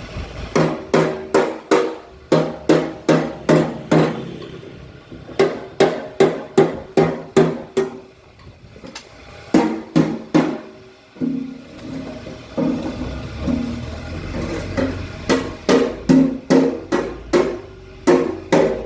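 Runs of sharp metal strikes, about two to three a second, each ringing briefly, broken by short pauses between the runs.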